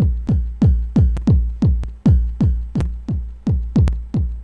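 Electronic kick drum sample from a Native Instruments Maschine, played over and over at about three hits a second, each hit a short punch that drops in pitch into deep bass. It is played through the MP60 engine mode, which emulates the Akai MPC60 and makes the kick a lot more pronounced and gritty.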